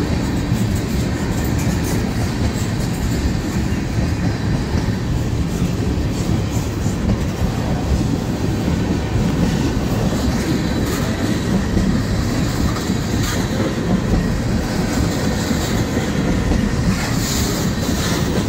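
Freight train of tank cars rolling past close by: a steady rumble of steel wheels on the rails with scattered clicks over the rail joints, and a brief hiss near the end.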